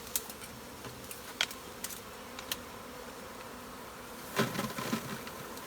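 Swarm of honeybees buzzing steadily around the beekeepers. There are a few sharp clicks, and a louder rustling, knocking burst about four seconds in.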